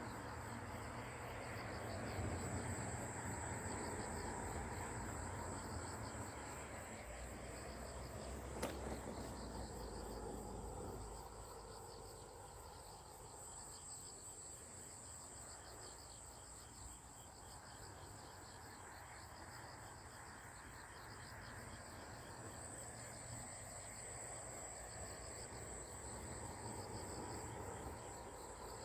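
Insects chirping: a steady high trill with a rapidly pulsing chirp just below it, over a low background rumble. A single click sounds about nine seconds in.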